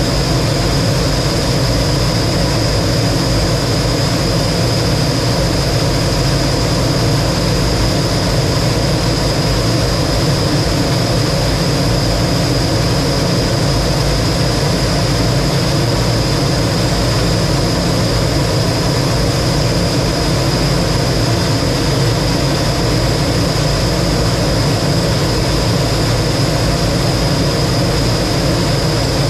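T-33 jet trainer's turbojet engine running steadily, heard from inside the cockpit: a dense, even roar with a constant high whine over it.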